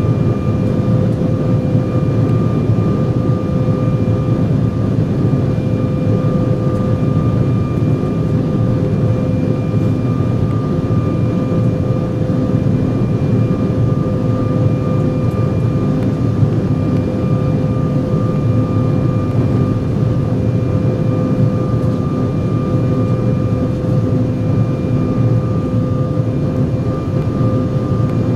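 Steady in-flight drone of an Embraer 175 airliner heard inside the cabin: a deep, even roar with a constant whine from its CF34 turbofan engines, unchanging throughout.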